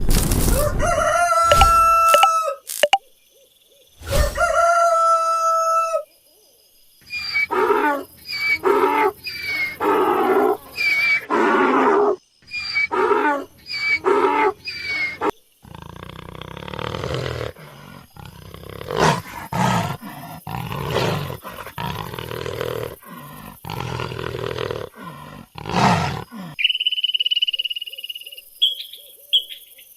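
A succession of different animal calls, one clip after another. It opens with two long, steady pitched calls. These are followed by a quick run of short repeated calls, then rougher, noisier calls, and a thin, steady high-pitched call near the end.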